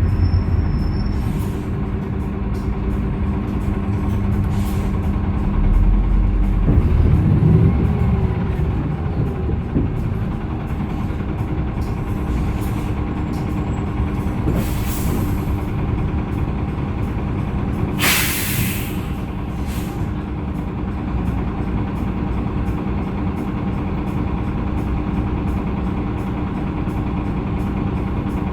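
Hyundai Green City CNG city bus with its C6GB natural-gas engine running steadily, with a deeper rumble about 6 to 8 seconds in. Compressed air hisses out twice from the bus's air system, a fainter release about 15 seconds in and a louder one about 18 seconds in.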